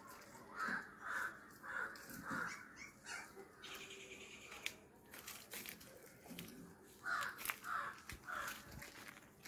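Harsh bird calls repeated about two to three times a second, in a run of about five near the start and another run of four near the end.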